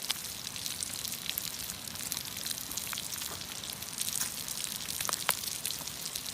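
Fire crackling, with a steady hiss and scattered sharp pops.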